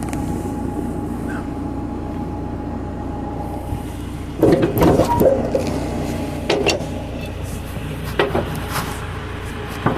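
JCB 3CX backhoe's Perkins diesel idling steadily, with a cluster of loud metal clanks about four and a half seconds in and a few single knocks after. The clanks come as the bucket is released from the manual quick hitch's rear jaw.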